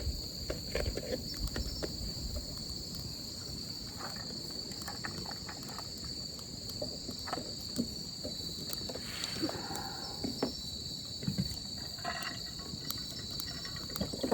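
A steady high chorus of insects, with scattered light clicks and knocks throughout.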